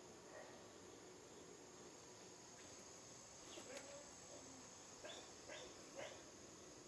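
Near silence with a steady high hiss, broken by faint dog barks: one a little after halfway through and three in quick succession near the end.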